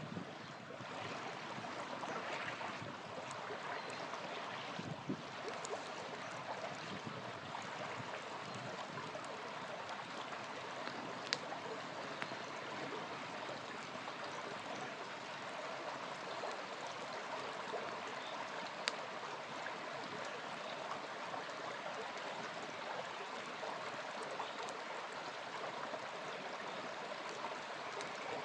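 A small river flowing steadily, with two sharp pops from a crackling campfire, one midway and one about two-thirds of the way through.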